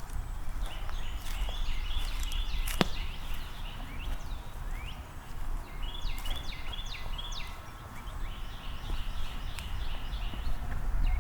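A songbird singing phrases of quickly repeated high notes, several phrases in a row with short pauses between them, over a steady low rumble. A single sharp click comes about three seconds in.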